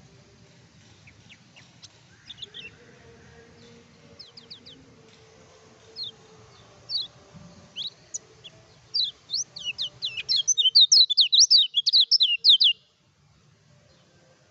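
Kecial kuning songbird singing: scattered high, sharp chirps at first, building about nine seconds in to a loud, fast run of chirps that stops abruptly near the end.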